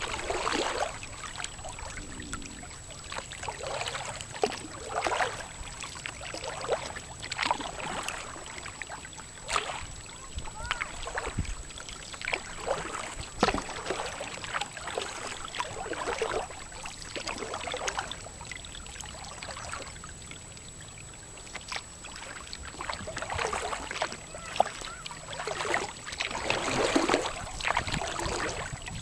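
Kayak paddle blades dipping and splashing in river water, a stroke every second or so, with a lull of a few seconds in the middle.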